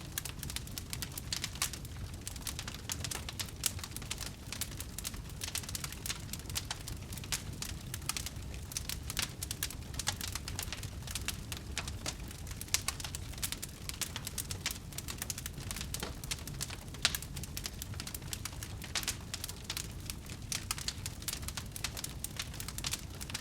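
Wood fire crackling: dense, irregular pops and snaps over a low rumble of burning.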